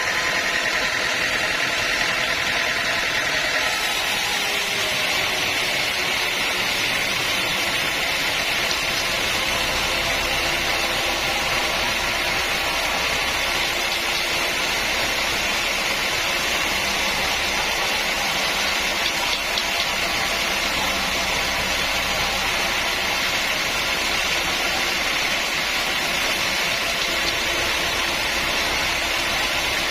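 Sawmill machinery running steadily under load, a continuous loud mechanical noise. About four seconds in, the humming tones fade and a more even hiss takes over.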